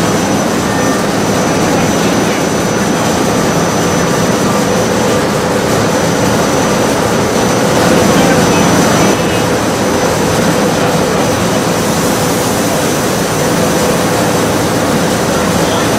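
SEPTA Silverliner IV electric multiple-unit train running through the station: a loud, steady rush and rumble with a constant hum in it, a little louder about eight seconds in.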